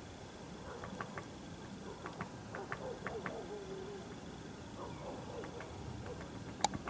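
Faint, irregular sharp ticks from a woodpecker, a few to the second, with one louder click near the end.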